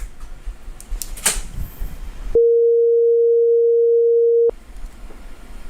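Censor bleep: a steady pure tone lasting about two seconds that replaces the audio completely, starting a little over two seconds in. Before it there is only faint background noise.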